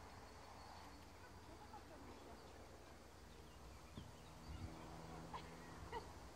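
Faint outdoor ambience: a steady low rumble with a few short bird chirps scattered through it, and a couple of soft low thumps about four seconds in.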